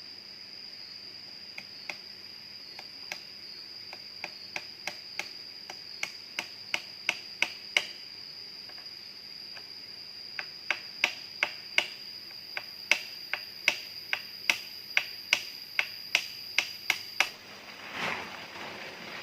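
Two runs of sharp knocks or clicks, about three a second, each run growing louder, over a steady high-pitched insect drone; a brief rustle near the end.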